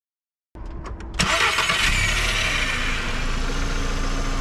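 Volkswagen car engine being jump-started from a portable lithium jump starter pack: the starter cranks briefly about half a second in, the engine catches a little after a second and then runs steadily at idle.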